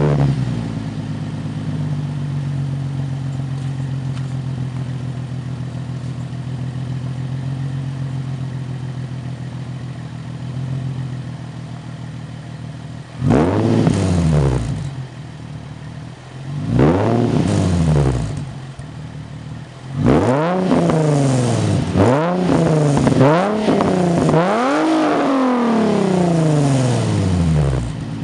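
Nissan 350Z's 3.5-litre V6 through a true dual HKS-replica exhaust with twin Fujita intakes, idling steadily, then blipped in two single revs and, from about two thirds in, a run of quick repeated revs that rise and fall in pitch.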